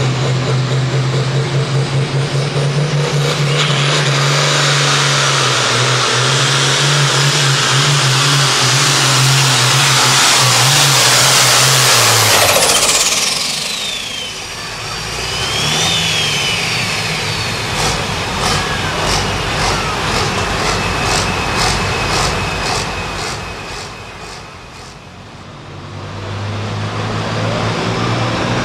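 Hot farm pulling tractor's turbocharged diesel engine at full power, with a high turbo whine that climbs for about twelve seconds. The engine then lets off and the whine falls away in a long downward glide. Next comes a lower stretch with an even ticking at about two a second, before the engine hum picks back up near the end.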